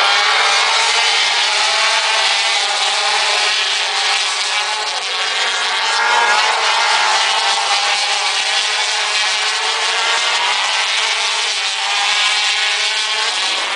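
MotoGP racing motorcycle engines running loud and steady, with many overlapping engine notes wavering in pitch.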